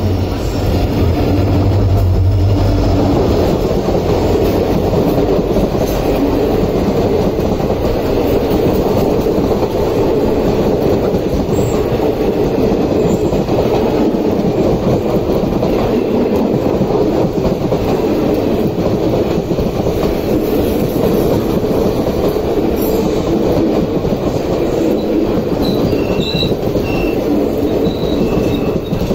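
Passenger express train running along the track: a steady, loud rumble of wheels on rail.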